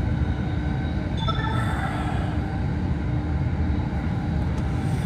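Steady running rumble of a rapid commuter train heard from inside the passenger car. A brief, faint, higher-pitched squeal comes about a second in.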